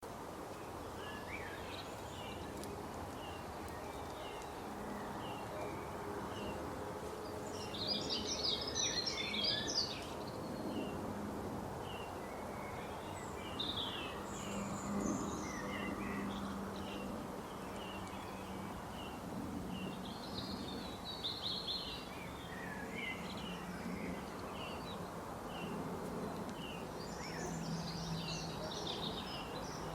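Wild birds calling, with short repeated chirps throughout and busier bursts of song about a quarter, two-thirds and nearly all the way in, over a steady low background hum.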